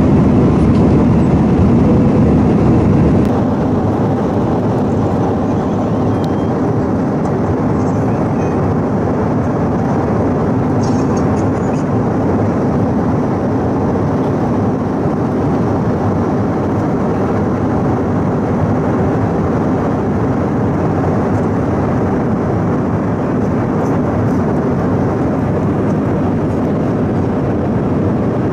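Steady cabin noise inside an Airbus A318 airliner: an even rumble of the jet engines and airflow. About three seconds in it drops slightly and changes character, as at a cut between two clips.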